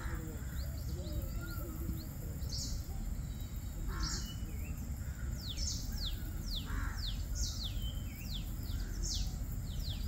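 Several wild birds calling: a run of quick, high, falling notes through the second half, and short harsh calls about four and seven seconds in, over steady low background noise.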